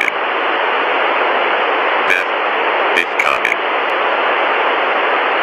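Loud, steady hiss like radio static, with brief fragments of a voice breaking through about two seconds in and again around three seconds in.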